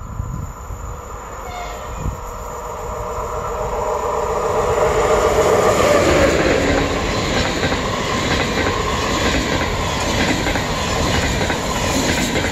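Railjet passenger train led by an electric locomotive approaching and passing close by. It grows louder, the locomotive's hum drops in pitch as it goes past about six seconds in, and the coaches follow with a steady rush and wheel clatter.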